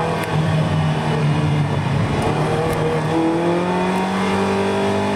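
Ferrari 328's V8 engine heard from inside the cabin, pulling steadily, then rising slowly in pitch as the car accelerates.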